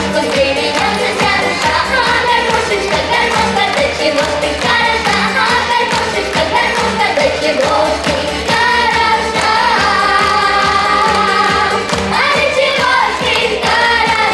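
A song: singing over a pop backing track with a steady beat.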